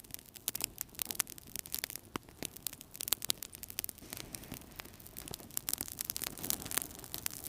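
Wood fire burning in a fireplace, crackling with many irregular sharp pops and snaps over a soft low rush of flame.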